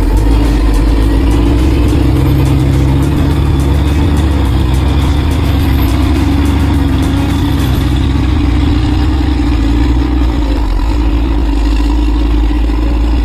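A large engine running loud and steady under load, close to the microphone.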